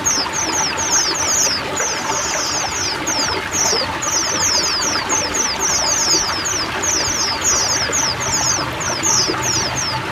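Several white-eyes (pleci) singing together in a continuous chorus of quick, high chirps that each slide downward, over the steady rush of running water.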